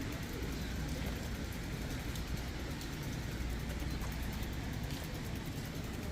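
Steady street ambience on a rainy day: an even low rumble with a hiss over it and no distinct event.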